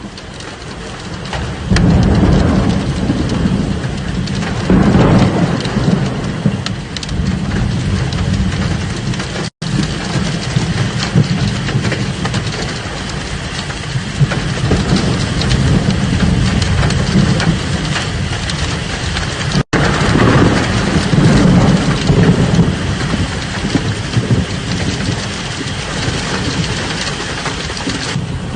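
Thunderstorm: heavy rain falling steadily, with deep rolls of thunder swelling and fading about 2 seconds in, again around 5 seconds, and around 20 seconds.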